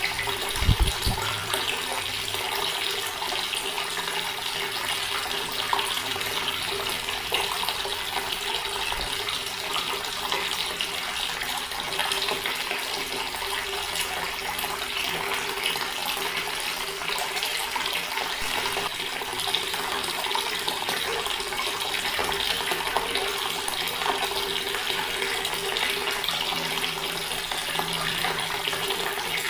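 Water running steadily from a tap and splashing, with a brief low thump about a second in.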